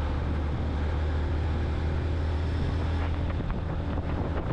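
Steady wind rushing over the microphone on a moving motorcycle, over the low drone of the Yamaha FZ-X's single-cylinder engine and road noise while cruising on a highway.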